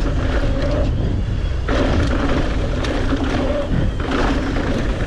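Strong wind gusts buffeting the microphone during a bike ride, a loud, steady low rumble with rushing noise above it.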